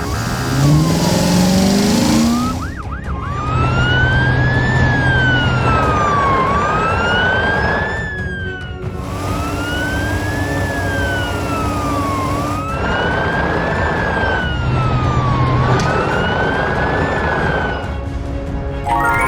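Police car siren wailing, its pitch rising and falling slowly, about one full sweep every three seconds, over a steady rumbling bed. Before the wail starts, a sound effect glides upward in pitch during the first couple of seconds.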